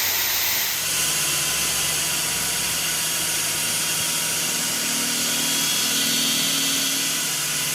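A workshop machine running steadily, with a strong hiss and a steady low hum.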